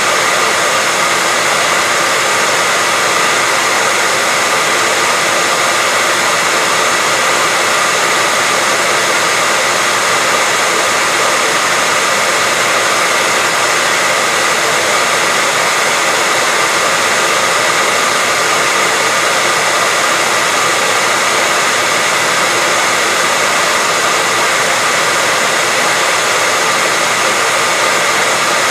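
Hairdryer running steadily: a constant rush of air with a steady motor whine.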